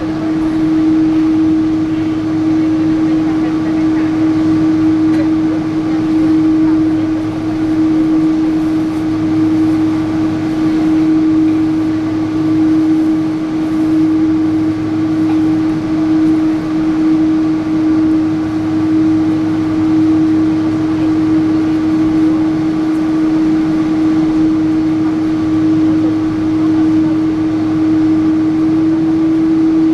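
Steady cabin noise of a Boeing 777-300 airliner in flight: an even rushing drone with a strong hum held at one pitch. It is unchanging and loud.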